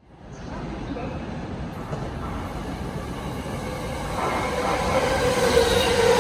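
Electric train running through a station, its rumble growing louder, with a steady whine coming in about four seconds in.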